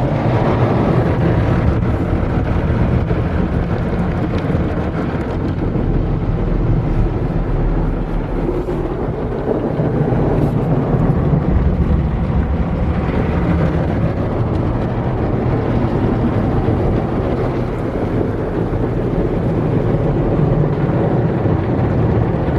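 Belanger car wash tunnel equipment working over the car, heard from inside the cabin: a loud, steady rush of noise over a low rumble.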